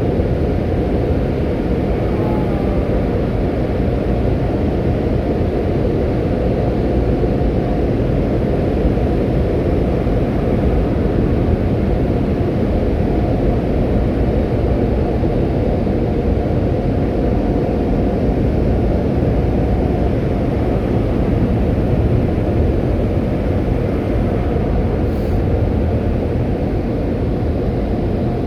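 Automatic car wash running, heard from inside the car cabin as a steady, loud rush of noise.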